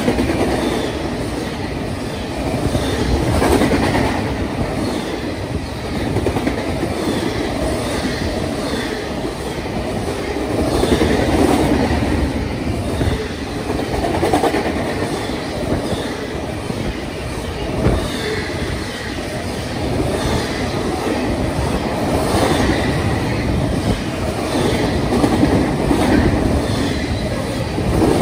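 Union Pacific double-stack intermodal train's well cars rolling past: a steady rumble of steel wheels on rail with clickety-clack over the rail joints, swelling and easing every few seconds as the cars go by, with the odd sharp clack.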